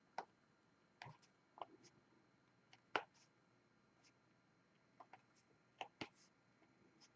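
Diamond painting: a drill pen picking up small resin drills and pressing them onto the canvas, heard as about eight small, irregularly spaced clicks and taps; the loudest comes about three seconds in.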